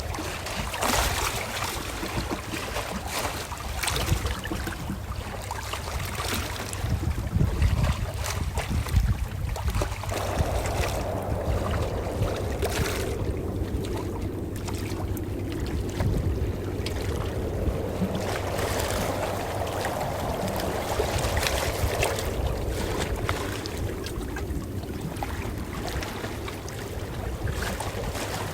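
Calm ocean waves washing and lapping: a continuous rush of water over a low rumble, with many small splashes and crackles.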